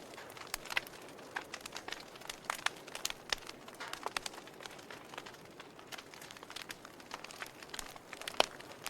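Wood fire burning in a fireplace: logs crackling with irregular snaps and pops over a soft hiss, one sharper pop near the end.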